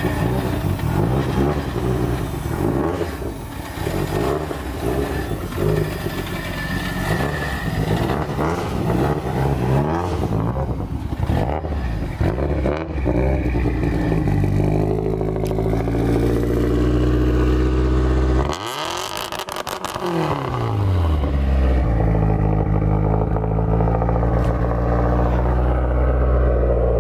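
Mitsubishi Lancer Evolution VIII's turbocharged 4G63 four-cylinder revved against its two-step launch limiter. For the first half the revs are choppy and broken. It then holds a steady high pitch, drops off briefly with a falling pitch a little past two-thirds of the way in, and is held steady again until it cuts off near the end.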